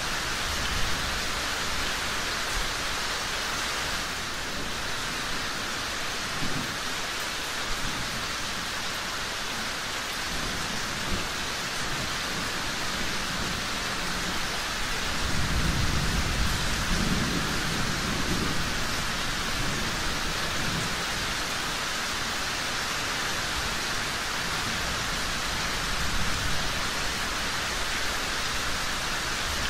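Steady rain falling, an even hiss throughout, with a low rumble that swells and fades about halfway through and a few brief pops here and there.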